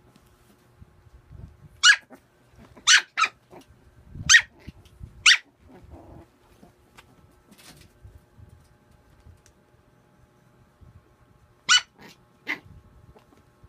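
A puppy yapping in play: a run of five short, high-pitched barks a couple of seconds in, then two more near the end.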